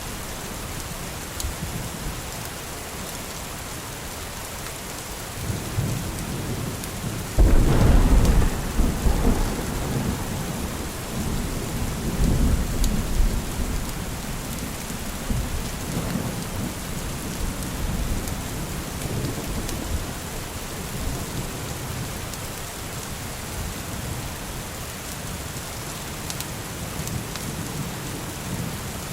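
Steady rain with thunder: a loud rumble breaks in suddenly about seven seconds in and rolls on for a few seconds, and a second, softer rumble follows about twelve seconds in.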